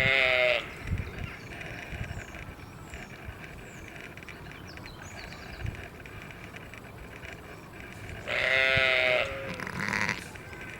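A bleating farm animal calls twice, once at the start and again about eight seconds in, with a shorter wavering call just after the second, over a steady outdoor background hiss.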